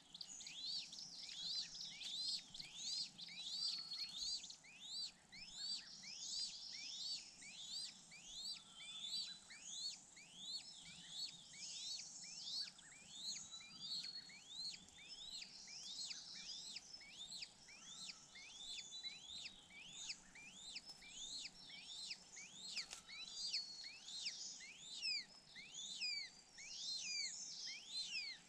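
Birds chirping continuously in a dense chorus of quick, high whistled notes that sweep up and down, several a second, with short steady piping notes among them.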